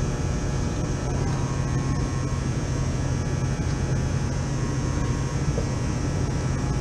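Air-conditioning condensing unit running steadily: a continuous fan and compressor drone with a strong low hum.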